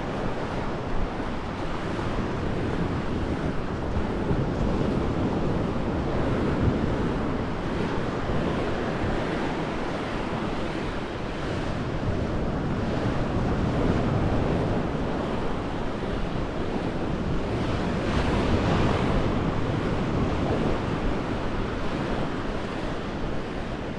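Sea surf washing on the shore, a continuous rush that swells and eases every few seconds, with wind rumbling on the microphone.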